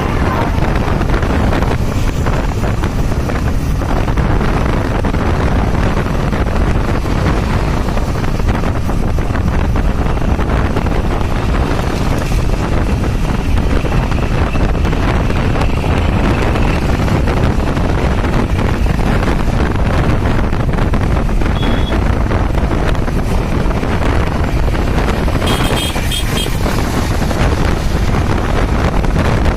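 Wind buffeting the microphone over steady road and traffic noise from a moving vehicle crossing the bridge, with a few short high-pitched tones near the end.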